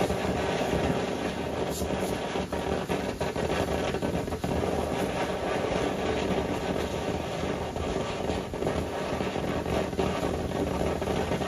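Fireworks going off in a continuous crackling barrage.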